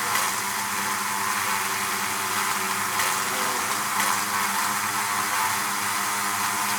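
Honeybee hive buzzing: many bees humming together in a steady drone, with a layered low hum of several steady pitches under a hiss.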